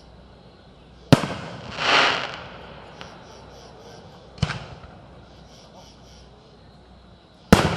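Fireworks going off: three sharp bangs about three seconds apart, with a hissing swell of noise that rises and fades about a second after the first.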